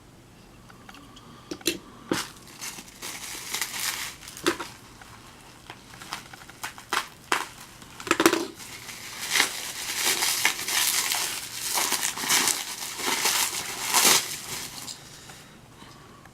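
Packaging being handled and unwrapped by hand: crinkling and rustling with scattered clicks, denser and louder from about the middle to near the end.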